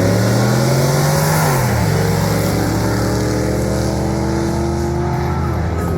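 Ford 460 big-block V8 in a 1968 F100 pickup accelerating hard. Its pitch climbs, drops sharply at a gear change about two seconds in, then climbs again.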